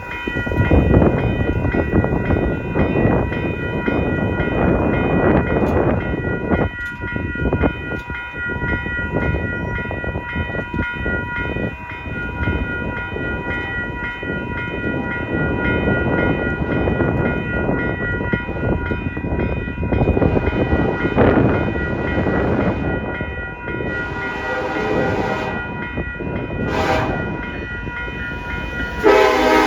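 A Union Pacific diesel locomotive and train rolling past close by: a steady rumble of engine and wheels on rail, with several steady high tones over it. Near the end the locomotive's horn starts to sound loudly.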